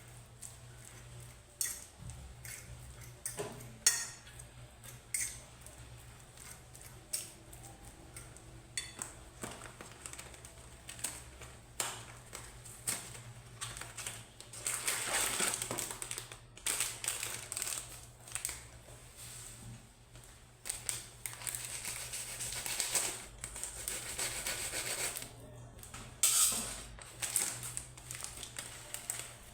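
Dishes and cutlery clattering as they are washed by hand in a sink, with tap water running in two longer spells, over a steady low hum.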